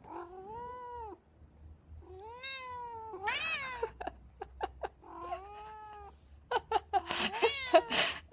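An intact male cat meowing in long, drawn-out calls, about five in all, with short clicks between them and a louder, harsher stretch near the end. These are the yowls of a tomcat roused by a female in heat.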